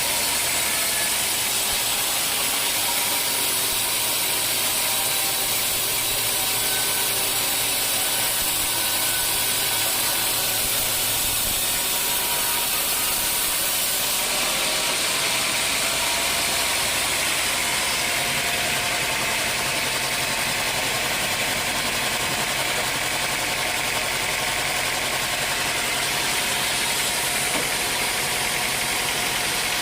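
Bandsaw mill running steadily: an engine drone under a strong high hiss. The sound shifts in character about halfway through.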